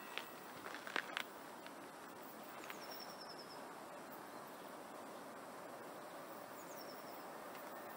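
Faint outdoor ambience: a steady low hiss, with a bird calling twice, each call a quick downward slide into a short high trill.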